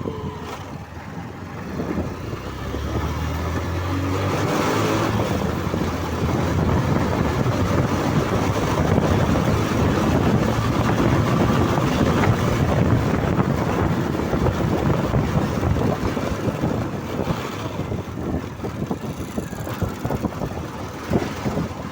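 Motorcycle engine pulling away and accelerating, then a steady ride with loud wind and road rush over the microphone.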